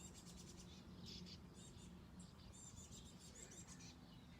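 Faint birdsong in the background: several small birds chirping and trilling in short high phrases, over a low steady hum.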